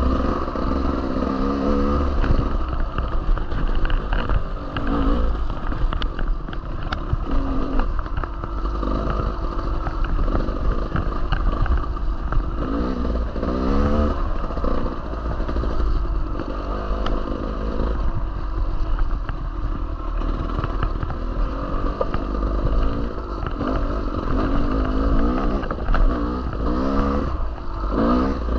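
Dirt bike engine revving up and down as it is ridden along a trail, its pitch rising and falling again and again over a steady low rumble, with bits of clatter.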